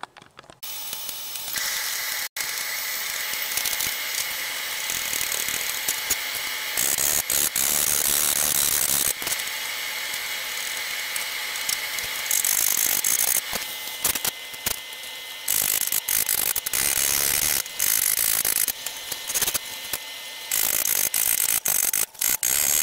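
Continuous rapid mechanical clicking and rattling from paintless dent repair tools working the fender's metal, louder in stretches and dropping back several times.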